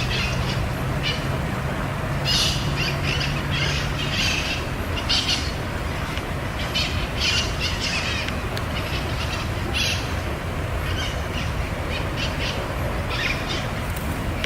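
Small birds calling: short, high chirps repeated irregularly throughout, over a steady low background rumble, with a low hum that fades out about four seconds in.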